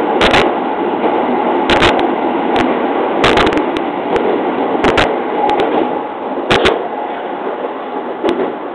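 A JR East 209 series electric train running, heard from the driver's cab: a loud, steady wheel-on-rail rumble that echoes in a tunnel, with a sharp clack about every second and a half as the wheels cross rail joints. The rumble eases somewhat after about six seconds as the train leaves the tunnel.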